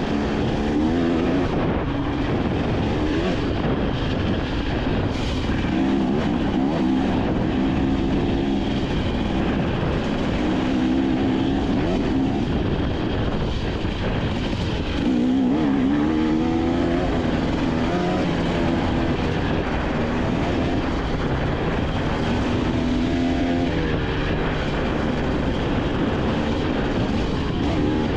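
KTM 250 XC-W two-stroke dirt bike engine being ridden, its note rising and falling again and again with the throttle.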